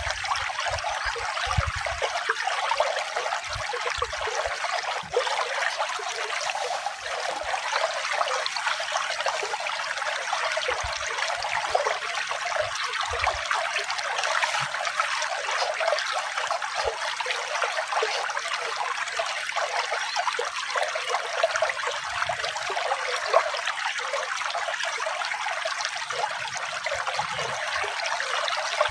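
Running water trickling steadily, a continuous even splashing with no let-up.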